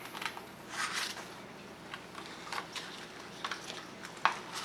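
Faint rustling of paper and a few light taps as a picture book's pages are handled and turned.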